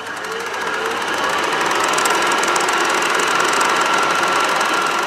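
Channel logo intro sound effect: a dense, rapid crackling buzz with a steady high tone through it, swelling over the first second and then holding.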